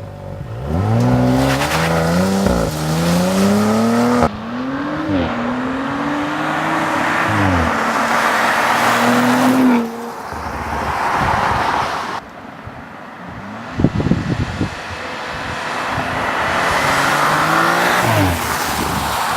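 Audi RS4's 2.9-litre twin-turbo V6, with sport exhaust, accelerating hard: the revs climb, drop briefly at upshifts and climb again over several separate takes that cut off suddenly. A short run of sharp cracks comes roughly two-thirds of the way through.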